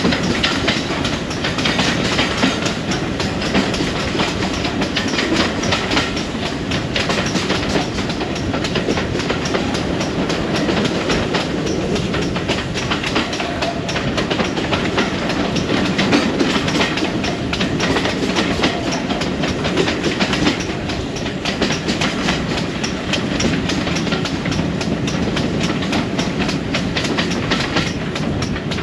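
Railway passenger coach running along the line, heard from on board: a steady rumble with the wheels clicking over the rail joints in a continuous clickety-clack.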